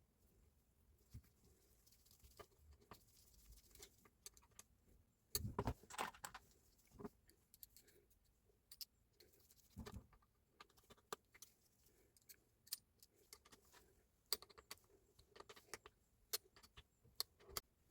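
Scattered light clicks and knocks of small parts and tools being handled during a repair. There is a louder clatter about five and a half seconds in and another knock near ten seconds.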